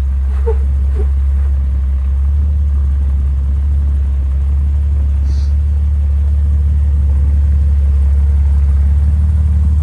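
Jeep engine and drivetrain running at low speed while crawling over rock, a steady low rumble that grows a little louder near the end.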